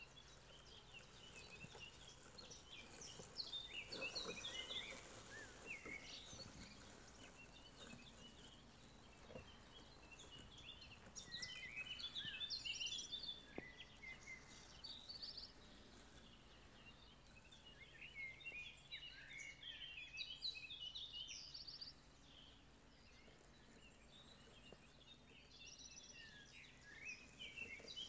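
Faint birdsong from several small birds: clusters of quick high chirps and trilled phrases that come and go every few seconds over a low outdoor background hush.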